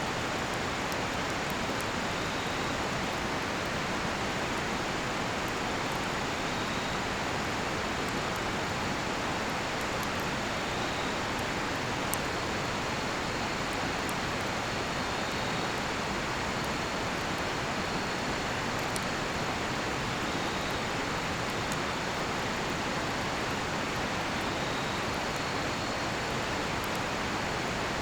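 Steady rush of a river, with a cedar-wood campfire crackling faintly and giving a few sharp pops, and crickets chirping in short high repeated trills.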